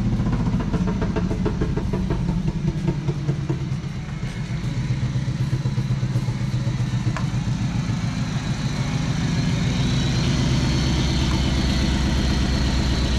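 Chevrolet 305 V8 of a 1992 Camaro running through headers and an open Y-pipe with no muffler. It pulls the car along slowly, then settles into a steady idle near the end.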